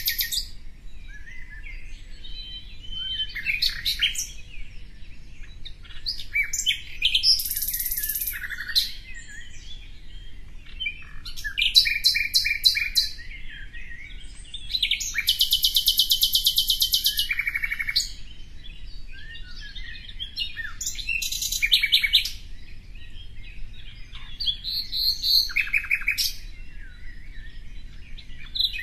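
Songbird singing: fast, evenly repeated trills lasting one to three seconds, broken up by shorter chirps and whistled notes.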